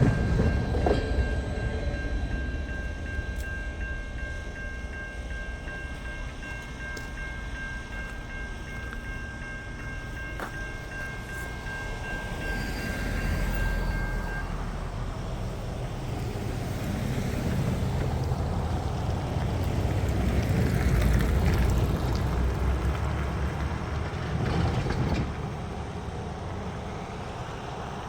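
Long freight train of loaded container well cars rolling past, with a steady high squeal from the wheels for about the first half. The rumble of the cars fades, swells twice, then drops off near the end.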